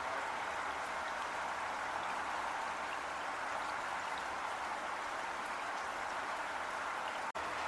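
Heavy rain falling steadily as a dense, even hiss. It cuts out for an instant near the end.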